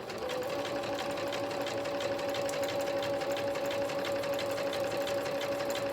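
Electric sewing machine stitching across a journal page: a steady motor hum with a rapid, even tick of needle strokes.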